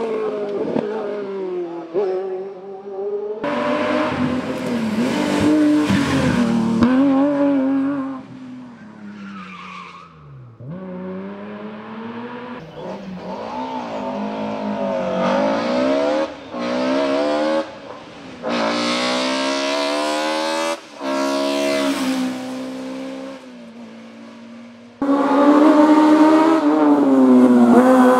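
Hill-climb race car engines revving hard through the gears, the pitch climbing and dropping with each upshift and braking, heard in a series of passes that switch abruptly every few seconds.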